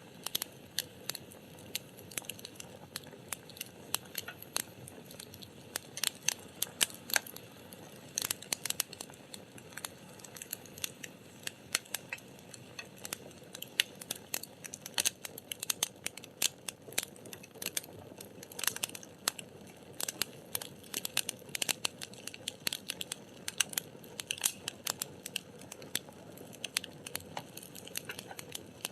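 Wood fire burning: burning logs give off dense, irregular crackles and sharp pops over a low steady hiss.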